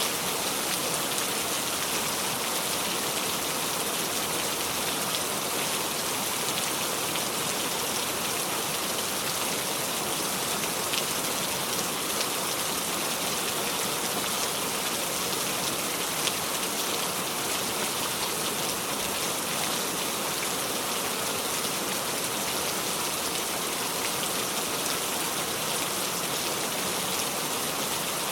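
Steady heavy rain falling and pattering on surfaces, a constant hiss with scattered drop ticks and no thunder.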